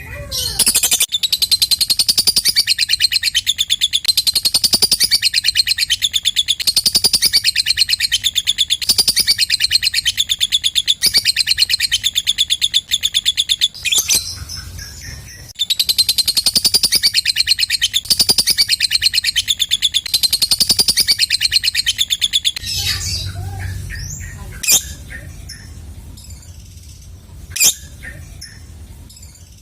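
Lovebird 'ngekek': a long, very rapid, high chattering trill, broken once by a short pause about halfway. It then gives way to quieter calling with two sharp single chirps near the end.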